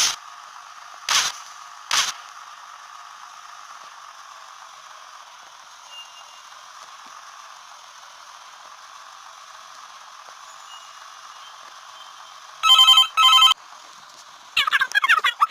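A steady faint hiss with three short bursts of noise in the first two seconds. About 13 seconds in come two short electronic ringing tones, like a telephone ring, followed near the end by a fast warbling chirp.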